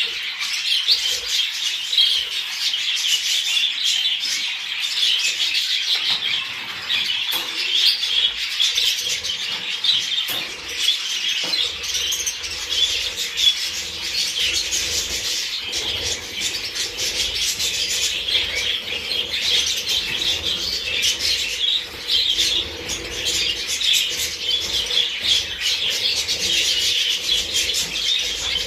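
Budgerigars chattering and warbling, a dense, continuous stream of rapid chirps.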